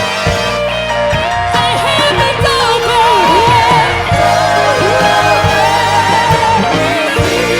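Gospel worship music: a wordless, wavering vocal line with heavy vibrato sung over continuous instrumental accompaniment.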